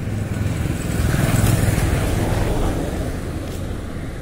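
A motor vehicle passing by, its engine and road noise growing louder to a peak about a second and a half in, then fading away.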